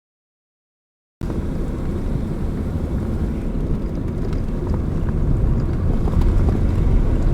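Complete silence for about the first second, then the steady low rumble of a car driving along a road, slowly growing louder, with a few faint ticks.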